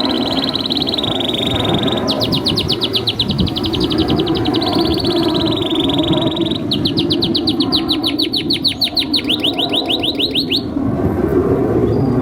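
Domestic canary singing: a held whistle note, then two long, fast trills of repeated notes, stopping about ten and a half seconds in. A steady low background noise runs underneath.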